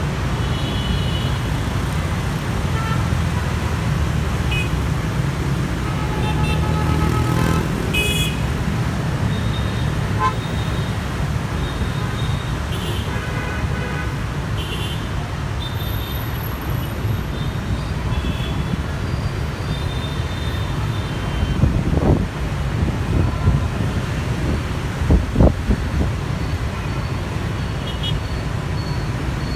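Busy road traffic at a bus stop: a steady engine and tyre rumble with frequent short horn toots, and two louder bumps about three-quarters of the way through.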